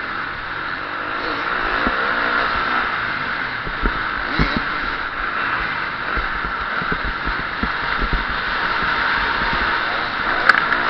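KTM 350 SX-F single-cylinder four-stroke motocross engine revving up and down under racing load, heard onboard, with low thuds scattered throughout and a sharp click near the end.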